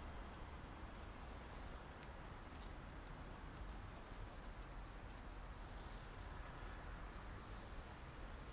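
Quiet outdoor background with a low steady hum and a few brief, high bird chirps scattered through it, one a wavering call about five seconds in.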